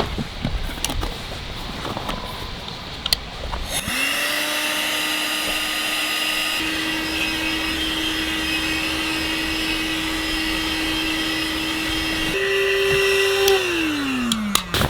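Small electric air pump starting up about four seconds in and running with a steady hum, its pitch stepping up twice before it is switched off and winds down near the end.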